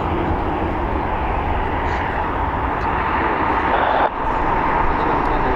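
Steady noise of jet airliner engines with a low rumble, dipping briefly about four seconds in.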